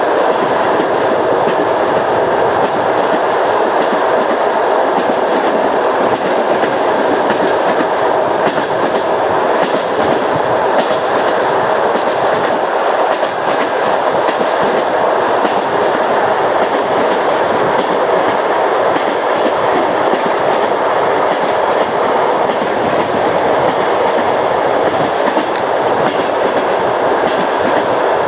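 A train running steadily along the line, with the rumble of its wheels on the rails and the clack of the wheels passing over rail joints.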